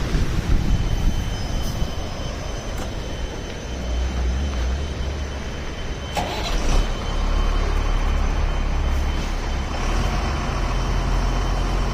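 Truck engine running and road noise while driving, with a few knocks and rattles; the loudest knock comes about six seconds in.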